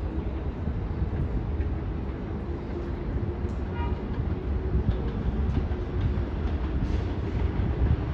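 An R188 subway train running on the steel elevated structure: a steady low rumble of wheels on rail with irregular clatter, getting a little louder toward the end.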